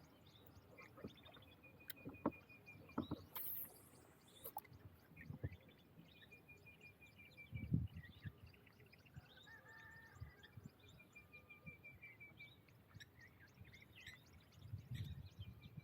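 Birds singing in the background: one bird repeats a rapid, slightly falling trill about four times, with scattered short chirps from others. A few low knocks and taps come between the trills, the loudest about eight seconds in.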